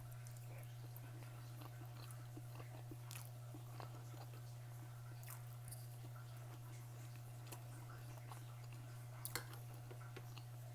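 A person chewing and eating close to the microphone, with scattered faint mouth clicks and smacks, over a steady low hum.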